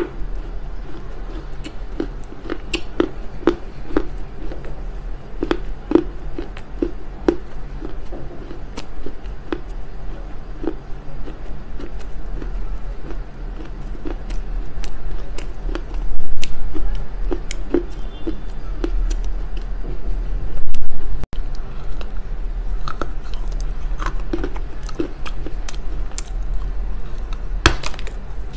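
Close-miked chewing and crunching of a chunk of smoked Chinese loess clay, many small sharp crackles as the dry clay breaks between the teeth, with a fresh bite near the end.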